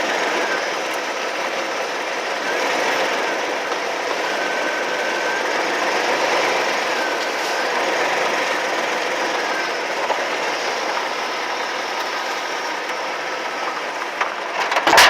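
A machine running steadily with a rapid mechanical rattle; a sharp knock near the end.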